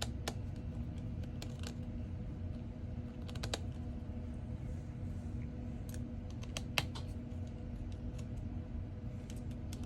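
Scattered small, sharp clicks and taps of a precision screwdriver and tiny screws being worked out of an iPhone 14's internals, over a steady low background hum.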